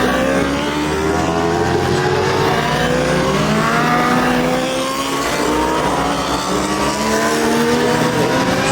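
Several superbike racing motorcycle engines revving hard, overlapping. Each note climbs in pitch and drops back as the bikes accelerate through the gears.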